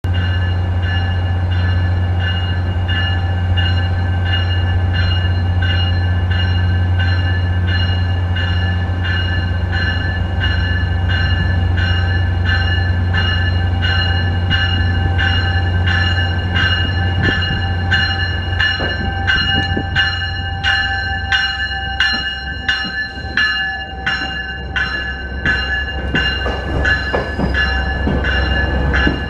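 GO Transit bilevel commuter train pulling into the platform with its bell ringing steadily, about one and a half strikes a second, over a steady low engine drone. In the last third the drone eases and the cars' wheels knock irregularly over the track as they roll past.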